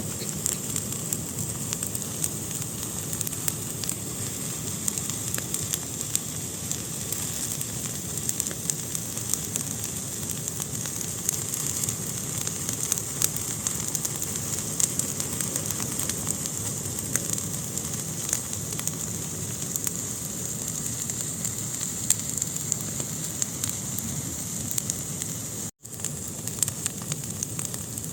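A fire burning in a fireplace: a steady hiss with many small crackles and pops all through. The sound cuts out for an instant near the end.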